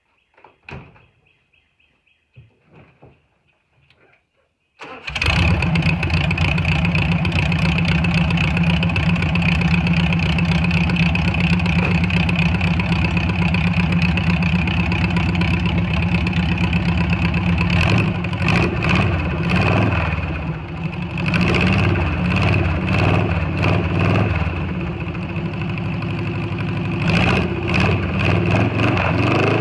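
VW Beetle's air-cooled flat-four engine catching about five seconds in, after a few faint knocks, and then running steadily, its speed rising and falling a few times in the second half. The ignition timing has just been advanced to 30 degrees and the carburettor retuned, and the owner feels it is running pretty good.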